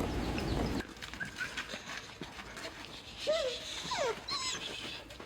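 A dog whining: several short, high whimpers that rise and fall in pitch, most of them in the second half. A steady rushing noise cuts off about a second in.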